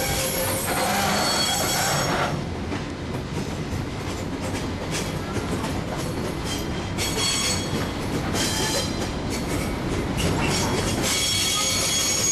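Excursion train rolling along the track, heard from aboard a passenger car: a steady rumble of wheels on rail, with high-pitched wheel squeals coming and going.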